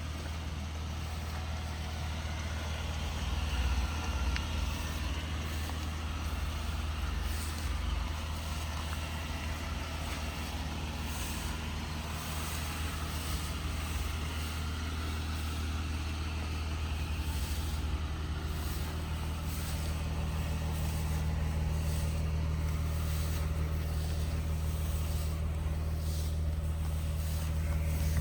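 Pickup truck engine idling steadily, a low even hum that grows slightly louder toward the end.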